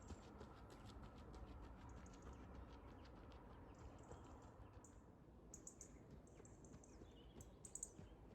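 Faint, regular footfalls of a runner, with short high bird chirps in the second half.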